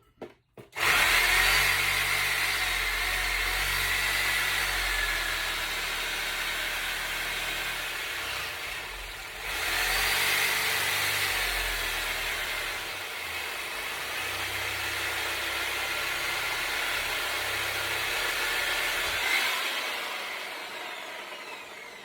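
A power tool cutting, running in two long stretches with a short dip about nine seconds in, then winding down near the end.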